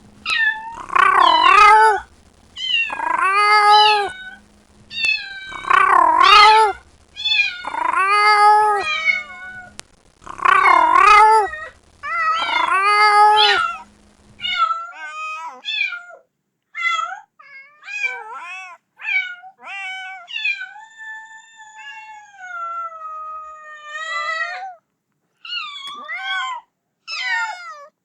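Kitten meowing as it calls for its mother. Loud meows come about every two seconds for the first half. Then the calls turn shorter and fainter, with one long drawn-out meow of about four seconds.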